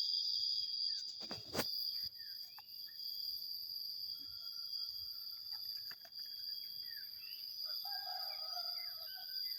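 Outdoor rural ambience: a steady high insect drone under scattered bird chirps, with a distant rooster crowing near the end. Two soft knocks sound in the first two seconds.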